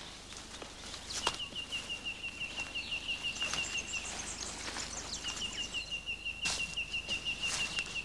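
A bird trilling in two long runs of quick, even, high notes, the second starting about five seconds in, with other birds chirping around it.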